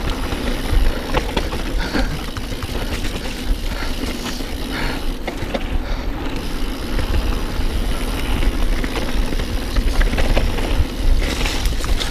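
Mountain bike being ridden over a wet, rough dirt trail: a steady low rumble of tyres and frame, with scattered clicks and knocks from the bike's chain and parts rattling over the ground.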